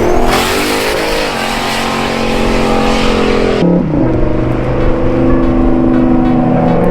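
Sports car engine accelerating hard away from a car show, with a loud rush of exhaust noise for the first few seconds. The note breaks briefly just past the middle, like a gear change, then runs on at a steady pitch.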